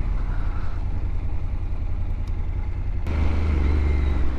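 Honda NC-series motorcycle's parallel-twin engine running under way, a steady low rumble under helmet wind noise, with a change in the engine note about three seconds in.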